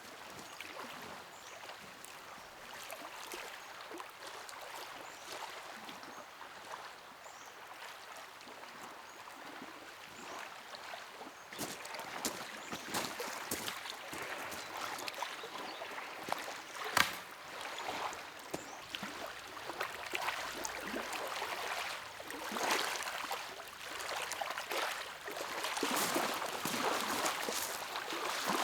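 Small lake waves lapping and splashing against the shore. The splashes get busier and louder about halfway through.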